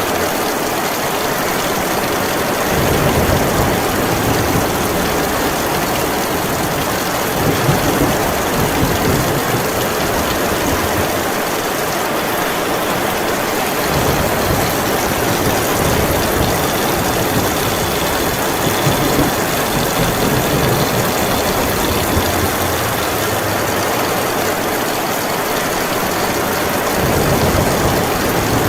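Heavy rain falling steadily, with low thunder rumbling on and off in long rolls that come and go several times.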